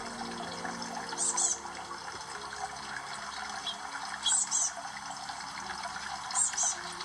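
Water trickling steadily, with three short bursts of high-pitched bird calls: about a second in, in the middle, and near the end.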